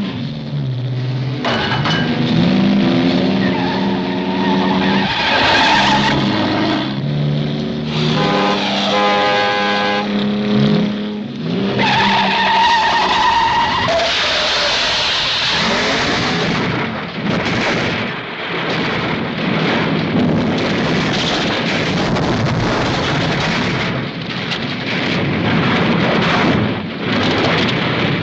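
Two cars racing on a winding mountain road: engines revving hard and tyres squealing through the bends, with long pitched screeches that bend in pitch during the first half.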